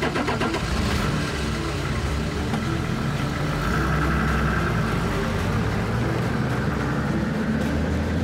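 Car engine running as the SUV pulls away.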